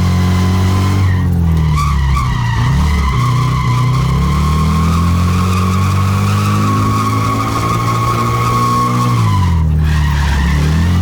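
Scion FR-S drift car sliding with its tyres squealing steadily while the engine is held high in the revs. The revs dip and climb again early in the slide; near the end the squeal stops and the revs fall away.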